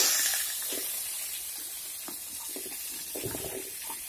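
Potato pieces sizzling in hot oil in a kadai. The loud first sizzle from when they went in dies down over about a second into a steady, quieter hiss.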